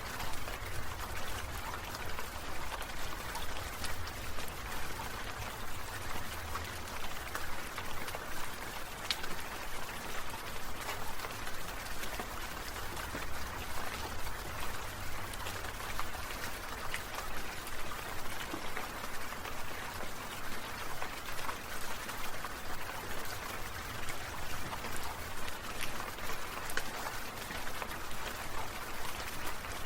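Water sprinkler spraying, many drops pattering in a steady hiss that swells and fades in a quick, regular pulse.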